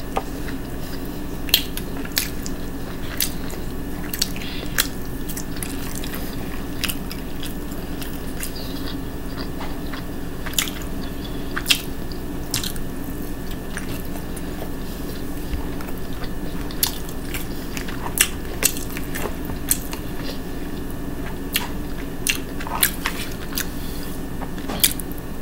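A person chewing food close to the microphone with smacking mouth sounds: irregular sharp clicks and smacks over a steady background hum.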